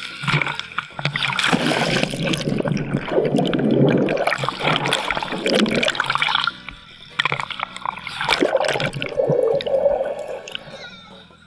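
Water splashing and gurgling in irregular surges, easing off a little before the end.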